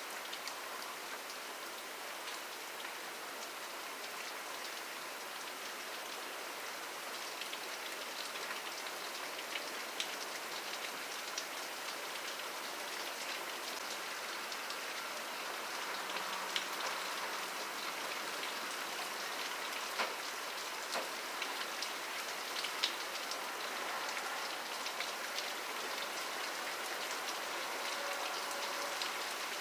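Steady rain falling, an even hiss with many separate drops ticking on a surface, growing slightly heavier toward the end.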